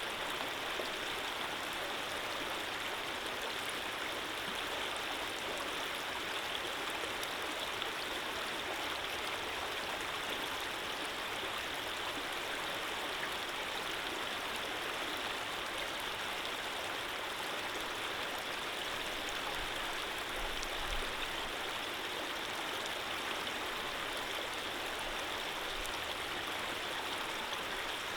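A gentle stream of running water flowing steadily, an even, unbroken rush.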